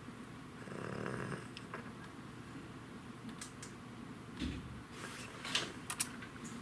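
Cavalier King Charles Spaniel snoring softly, one breath about a second in. In the second half come a handful of scattered sharp clicks and a soft low thump, the clicks the loudest sounds.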